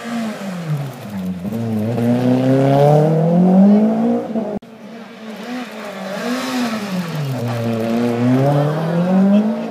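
Rally car engine: the revs drop as it slows into a corner, then climb steadily as it accelerates away. After a sudden cut about halfway through, the same drop and rising pull come again.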